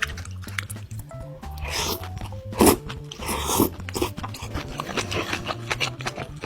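Close-up crunchy bites and chewing of food, with several loud crunches in the middle, over background music.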